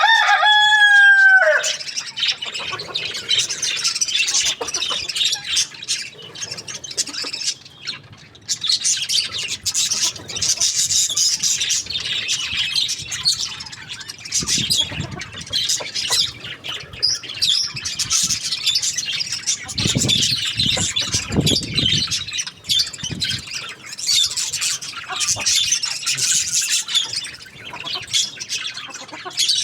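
The tail of a rooster's crow, a pitched call that falls slightly and ends about a second and a half in, followed by dense, continuous high chirping of many small birds, with a few low thumps in the middle.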